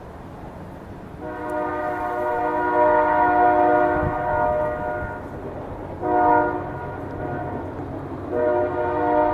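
Horn sounding a steady chord of several notes: one long blast, a short blast about six seconds in, and another long blast starting near the end.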